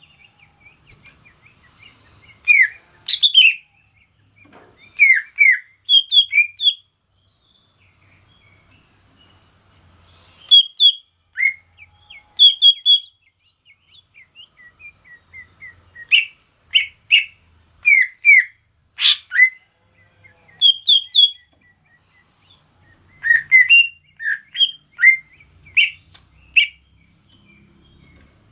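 Cucak ijo (greater green leafbird) singing: loud, short whistled notes and quick slurred chirps in bursts every few seconds, some rising and some falling in pitch. A steady high-pitched hiss runs underneath.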